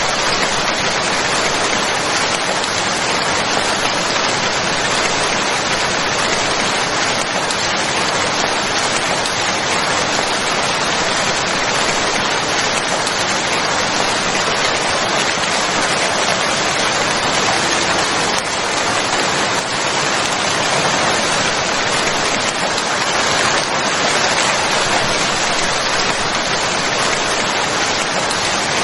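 Steady, heavy rain falling, an even hiss with no separate drops standing out.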